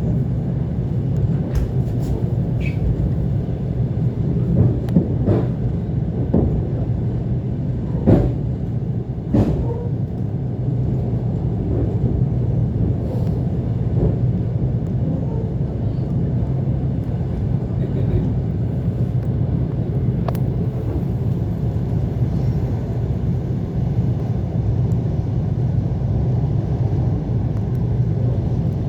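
ET2 electric train running along the track between stations: a steady low rumble with scattered, irregular clacks and knocks.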